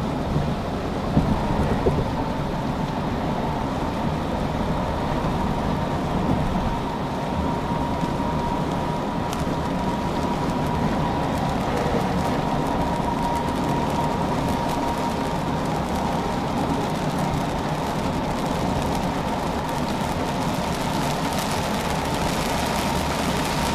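Heavy rain and road spray heard from inside a moving car on a wet freeway: a steady rushing of water and tyre noise, with fine ticking of raindrops on the glass that thickens in the second half. A faint steady whine runs underneath from about a second in.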